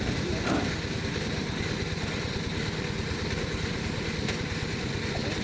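An engine idling steadily, with a few faint ticks over it.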